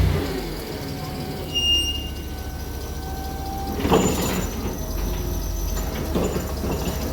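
A vehicle engine running low and steady, with a sharp metallic clank about four seconds in and a lighter one about two seconds later.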